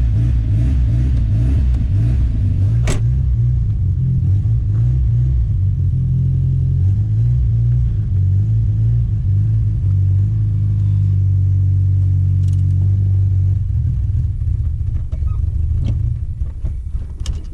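Turbocharged, carbureted Chevette four-cylinder engine running roughly just after catching on a cold start, its speed wavering up and down, then fading near the end as it dies.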